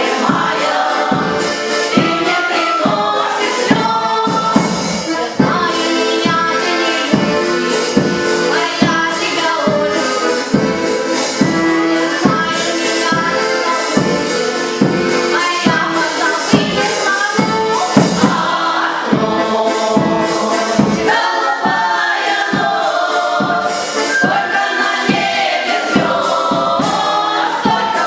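A choir singing to a band accompaniment with a steady beat.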